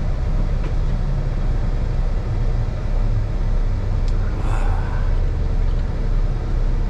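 Kenworth T680's PACCAR MX-13 diesel engine running steadily, heard from inside the cab on the road: a low drone with road noise.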